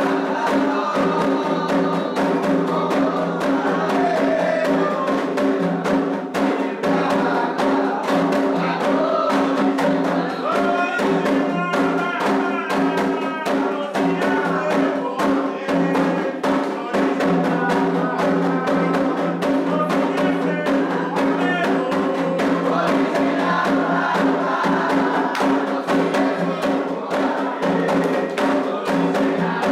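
Candomblé toque for Omolu: atabaque hand drums beating a fast, dense rhythm under group singing.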